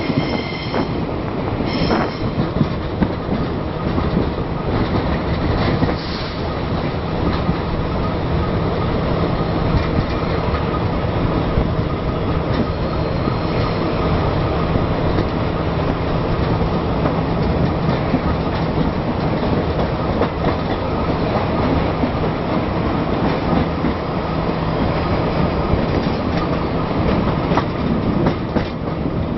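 Train under way behind a Krupp BB304 diesel-hydraulic locomotive, heard from on board: a steady rumble of wheels on the rails, with a brief high-pitched squeal about a second in.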